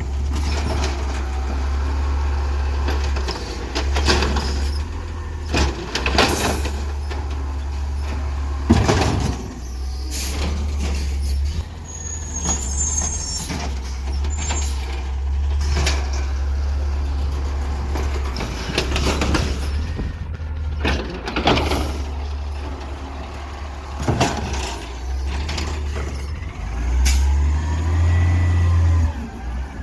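Garbage truck engine running with a steady low rumble, with a series of sharp clanks and bangs. Near the end the engine note rises and gets louder.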